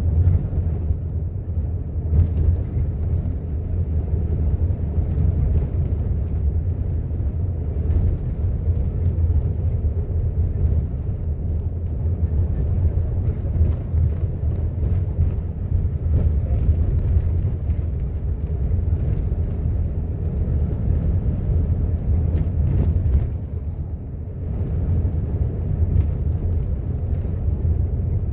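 Steady low outdoor rumble with faint scattered ticks above it.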